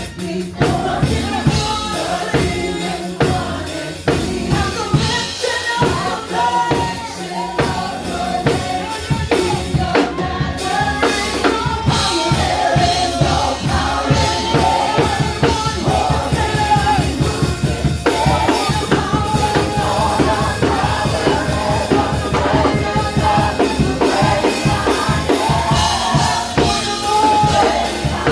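Live worship band playing, with a drum kit (kick, snare and rimshots) under voices singing; from about twelve seconds in the drums pick up to a fast, driving beat.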